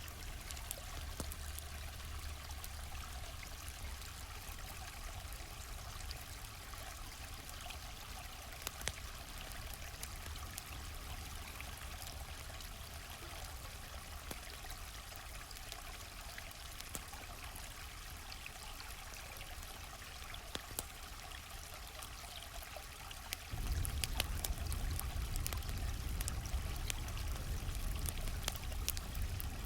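Steady rush of a flowing stream, with scattered sharp crackles and pops from a campfire over it. About 23 seconds in, the low rumble of the water steps up suddenly and stays louder.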